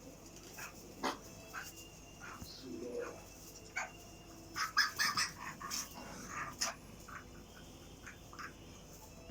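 Broiler chickens about a month old giving short, repeated peeping calls, crowded together in a quick run about five seconds in.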